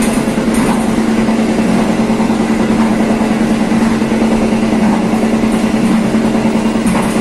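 Passenger train running along the track, heard from the rear of the train: a steady loud rumble with a constant low hum, and a few brief high clicks near the start and again near the end.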